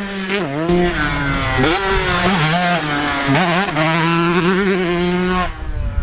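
Dirt bike engine being ridden hard, revving up and falling back again and again as the rider works the throttle and gears, then dropping off sharply near the end.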